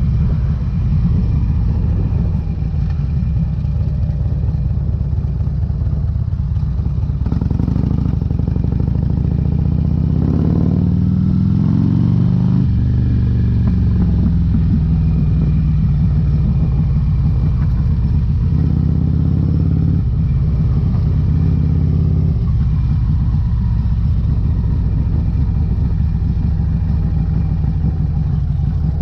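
2008 Harley-Davidson Electra Glide's V-twin running through Vance & Hines exhaust pipes on the move. About ten seconds in, the engine rises in pitch under acceleration, then drops suddenly at a gear change and settles back to a steady run.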